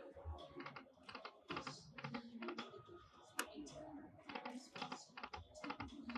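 Faint, rapid, irregular clicking at a slot machine, like typing on a keyboard, several clicks a second.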